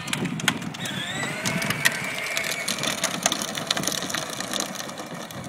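A John Deere Gator 12-volt ride-on toy driving: its electric drive motor whines, rising in pitch about a second in, over many small rattles and clicks from the plastic gearbox and wheels.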